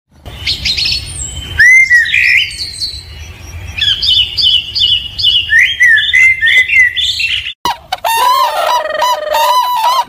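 Gouldian finches chirping and twittering in quick high notes for about seven and a half seconds. Then an abrupt change to the loud, repeated calls of red-crowned cranes.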